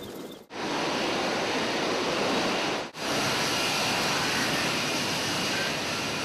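Jet fighter engine noise, a steady roar heard as edited footage: it breaks off sharply about half a second in and again near three seconds, resuming at once each time.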